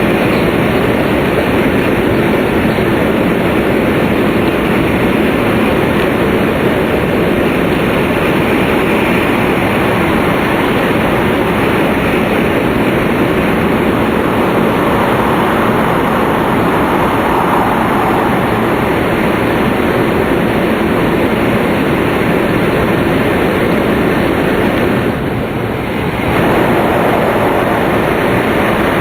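Tohoku Shinkansen Hayate train running at speed, heard inside the passenger car as a steady rushing roar of wheels, air and motors. It eases off briefly about 25 seconds in.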